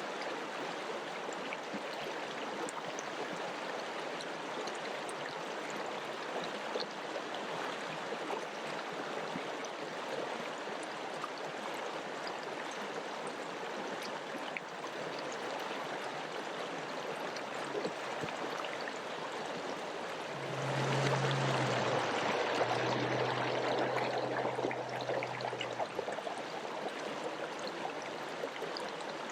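Mountain river flowing steadily. About two-thirds of the way through, a louder rush with a low steady hum swells for about five seconds, then fades back.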